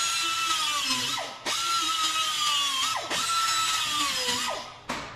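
Hand-held power tool run in three bursts of about a second and a half each, its motor pitch sagging slightly as it loads up before each stop.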